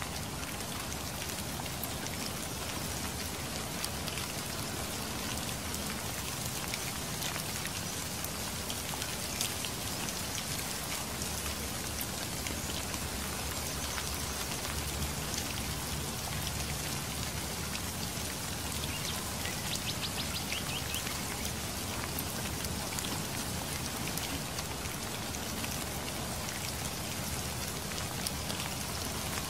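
Steady rain falling, with many separate drops striking close by over a continuous hiss.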